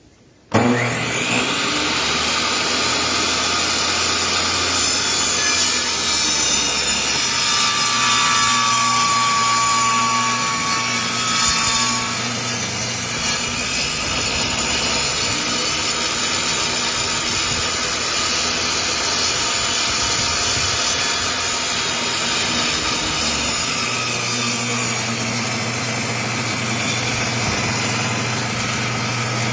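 Table saw running steadily and cutting a wooden board, the noise starting abruptly about half a second in.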